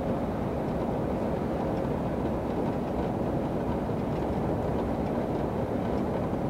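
Steady engine and road noise inside the cab of a moving truck.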